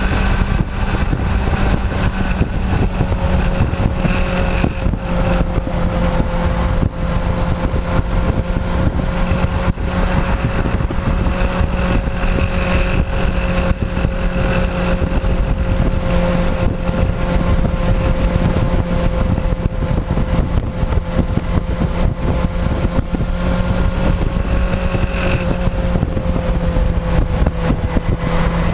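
Motorcycle engine running at a steady cruising speed, its pitch nearly constant, heard from a camera mounted on the fuel tank, with wind rushing over the microphone.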